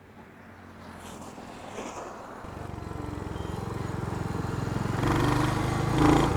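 Royal Enfield Hunter 350's single-cylinder engine running, growing louder over the first couple of seconds and settling into a steady low thump from about two and a half seconds in, with a brief louder swell near the end.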